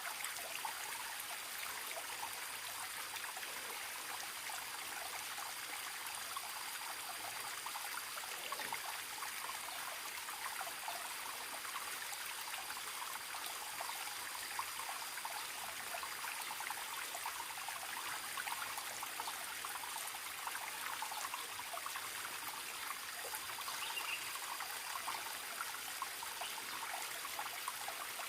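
Small forest stream trickling and babbling steadily over stones, with a faint steady high whine above it and a brief high chirp near the end.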